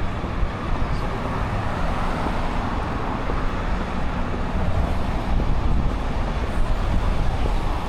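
Steady city street traffic noise: a continuous low rumble of passing cars and other vehicles, with no single event standing out.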